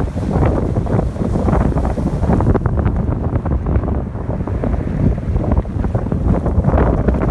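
Strong wind buffeting the microphone, loud and gusty, over ocean waves washing onto the shore.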